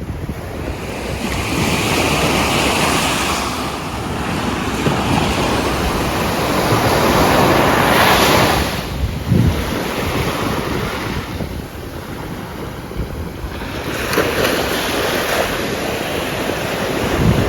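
Rushing water and wind: a noisy wash that swells and fades every few seconds, with wind buffeting the microphone.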